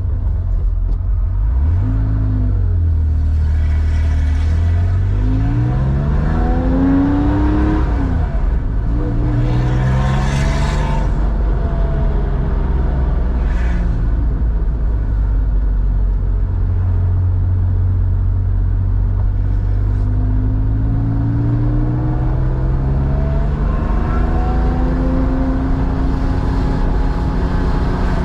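1987 Porsche 911's air-cooled flat-six, enlarged to 3.4 litres and breathing through a Scart two-in-one-out muffler, being driven: its note climbs and drops off about eight seconds in, climbs again, holds steady through the middle, and rises slowly near the end.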